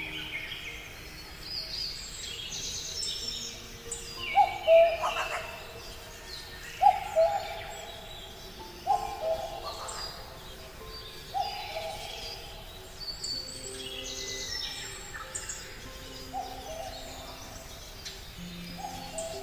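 Several birds calling together: a short hooting call repeated about every two seconds, the loudest sound, over higher chirps and twitters.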